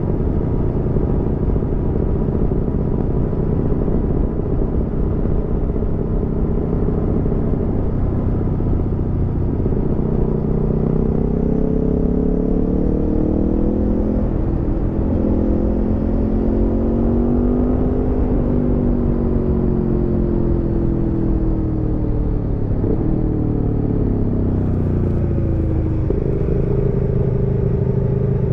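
Aprilia Tuono V4 motorcycle's V4 engine under way: running at a steady pitch, then the revs climb slowly for several seconds and fall back again, with a sudden step in pitch near the end.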